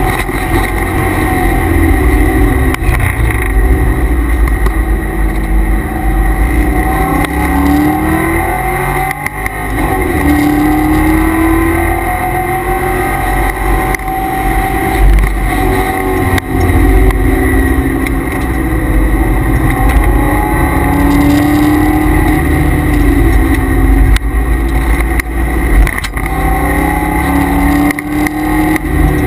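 C5 Corvette Z06's LS6 V8, heard from inside the cabin on track, climbing in pitch under hard acceleration and dropping back between pulls, several times over. Under it runs a steady high whine, which the owner puts down to the noisy transmission and differential coolers.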